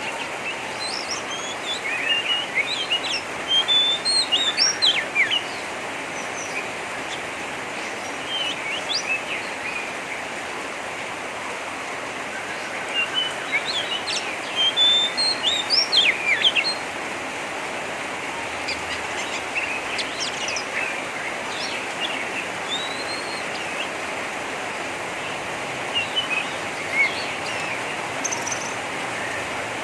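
Oriental magpie-robin (kacer) giving rough, rapid 'ngeriwik' chatter: bursts of quick, sharp chirps and short whistles with pauses between them, over a steady hiss. This harsh chatter is used by keepers as a lure call to provoke a kacer into opening its tail.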